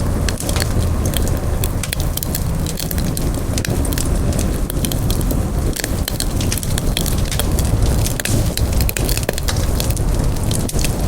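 Wood campfire crackling, with many sharp irregular pops and snaps over a steady low rush of burning.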